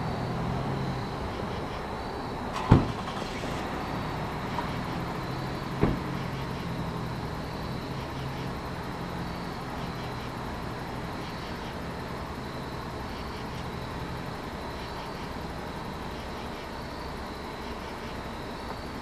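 Rotem Silverliner V electric multiple-unit train pulling away, a steady low rumble and hum that slowly fades. Two sharp knocks come about three seconds apart, near the start.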